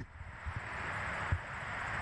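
Outdoor nature ambience: a steady hiss with a few brief, soft low thumps.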